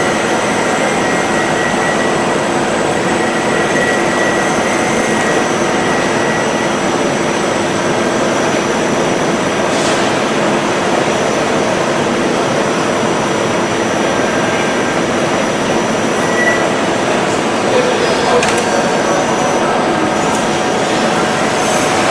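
Milling machine running steadily: a loud, even noise with a faint steady whine, and brief clicks about ten and eighteen seconds in.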